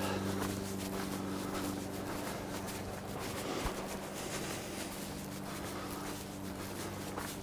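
A steady low engine hum, with soft irregular scuffs of footsteps on dry ground.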